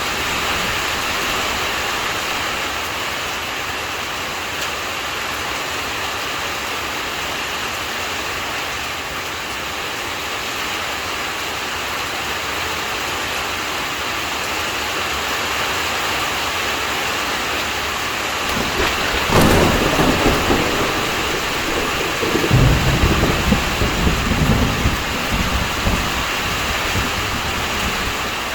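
Steady heavy rain during a thunderstorm; about two-thirds of the way through, a sudden sharp crack of close thunder, followed by low rolling thunder that rumbles on for several seconds.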